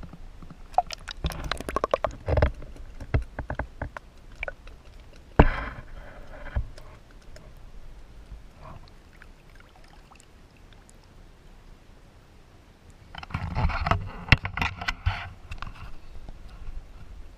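Canoe being paddled: scattered sharp knocks and clatter of paddle and gear against the hull, with water noise in between. The knocks come in clusters near the start, once about five seconds in, and again from about 13 to 15 seconds in.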